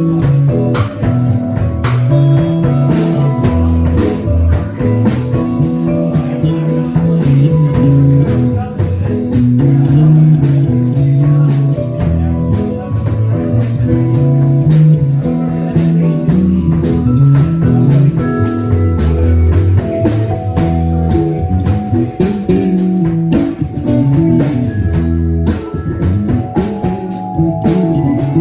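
A band playing music: guitar over a moving bass line, with a drum kit keeping the beat.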